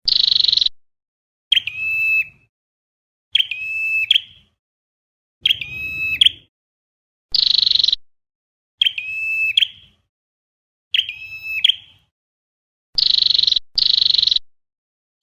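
Looped recording of flowerpecker calls played as a trapping lure. A call comes about every one and a half to two seconds, some clear ringing notes and some harsh buzzy ones, loud and clipped.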